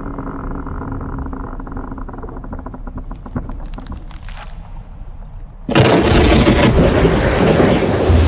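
Glacier ice at the sea edge cracking and creaking over a low rumble, then about six seconds in a sudden loud crash as ice breaks away and falls, carrying on as a heavy rushing noise.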